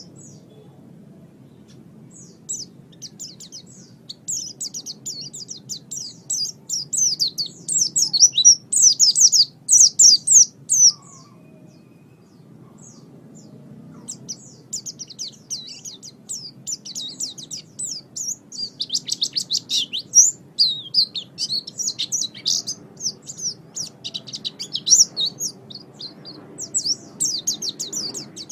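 White-eye (pleci) singing: long phrases of rapid, high, thin chirping notes, with pauses at the start and again around the middle.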